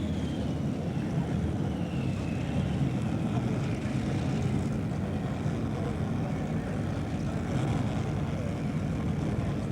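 A pulling tractor's engine running loud and steady, with a high whine that falls in pitch over the first three seconds.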